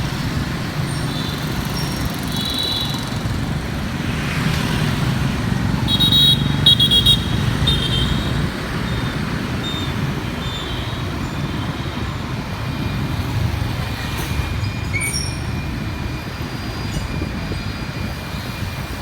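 Motorbike running along a road: steady low engine and road noise. A few short high beeps sound about six to eight seconds in.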